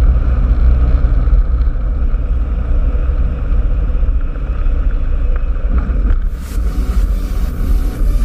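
Cessna 172's piston engine and propeller droning steadily in the cockpit in flight, a loud, even low drone.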